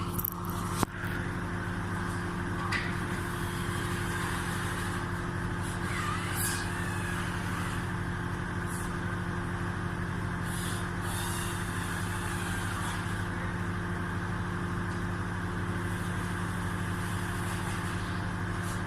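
Microwave oven running with a steady hum, heating a mug of water during a test after a repair for a no-heat fault, with one sharp knock about a second in.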